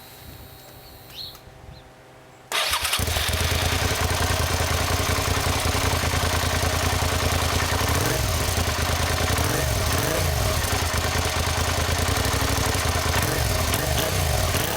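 Suzuki SV650S motorcycle's 645 cc V-twin engine starting about two and a half seconds in, then running at a steady idle with a few short throttle blips in the second half.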